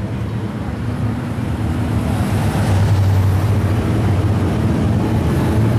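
A car engine running with a low, steady rumble as it drives slowly past, growing louder from about a second in.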